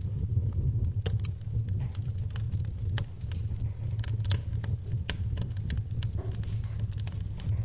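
Wood fire in a fireplace crackling, with irregular sharp pops and snaps a few times a second over a steady low rumble.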